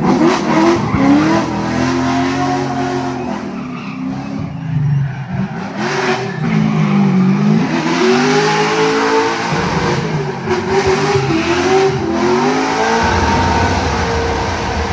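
Competition car engine driven hard, its revs climbing and dropping back over and over through gear changes, with tyre noise on the surface.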